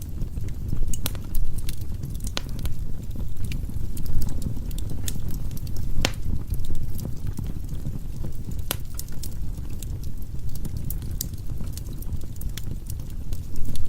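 Firewood burning in a fireplace: a steady low rumble of flame with frequent sharp crackles and pops, two of them louder, about six seconds in and near nine seconds.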